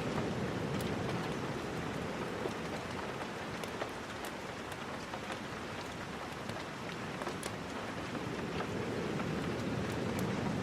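Steady rain, with scattered sharp clicks throughout.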